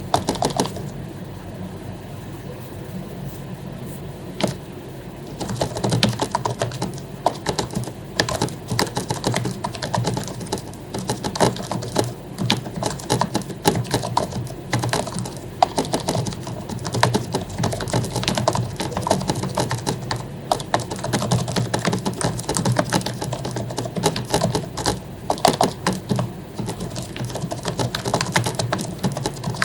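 Typing on an HP membrane keyboard whose keycaps have been lubed for smoothness: a few scattered key presses for the first few seconds, then steady, fast clicking of keys to the end.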